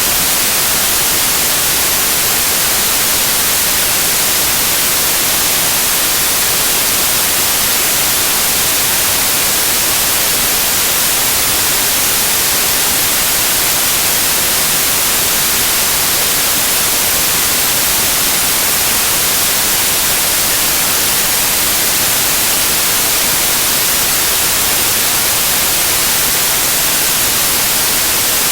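Loud, steady white noise: an even hiss, strongest in the high frequencies, that never changes.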